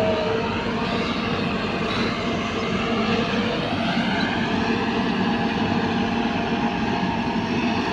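Hyundai 150L excavator's diesel engine running steadily while it digs and loads, with a higher whine that rises and falls as the machine works.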